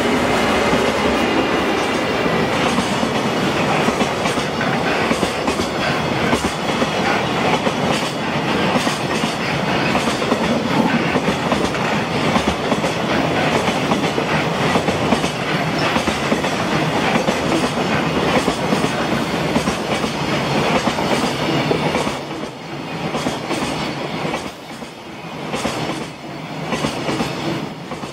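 A JR Freight container train hauled by an EF210 electric locomotive passing close by, its wagon wheels clattering steadily over the rail joints. The noise dips a few times near the end as the last wagons go by.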